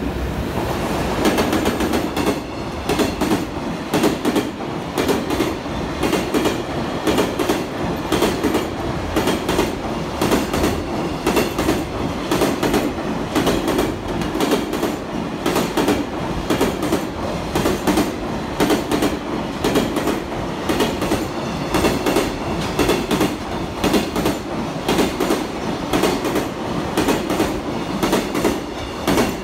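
Long freight train passing close by at speed, an EF210 electric locomotive followed by container flat wagons: a loud, steady rolling rumble with a rhythmic clickety-clack of wagon wheels crossing rail joints.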